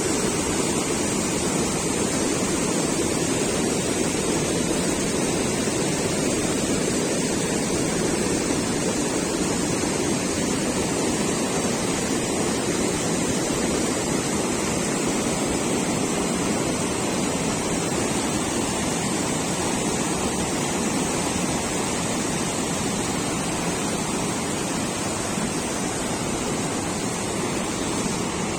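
Steady rushing of water, an even noise that does not let up, fading slightly toward the end.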